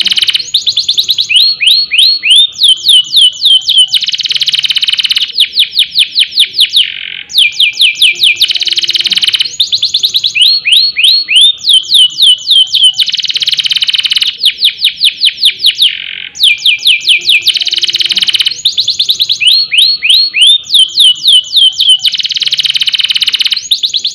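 Domestic canary singing loudly and continuously: runs of rapid, falling whistled notes alternate with dense rolling trills. The same phrase comes round about every four and a half seconds.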